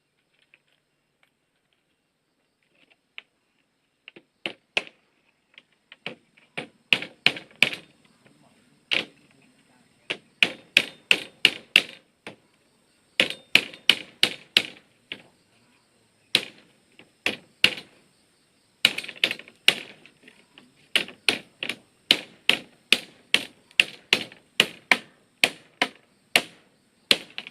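Repeated sharp knocks of a hand tool striking bamboo, two to three blows a second in runs with short pauses, faint at first and louder from about six seconds in.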